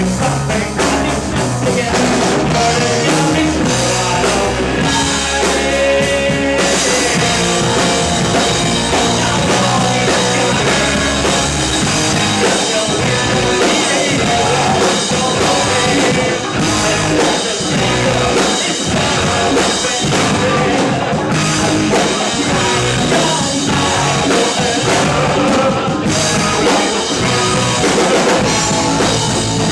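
Live rock band playing, with drum kit and amplified instruments, and singing at times.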